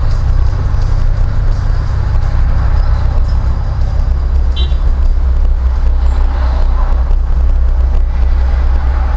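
Steady low rumble of a car's engine and tyres heard from inside the moving car, with a brief high beep about halfway through.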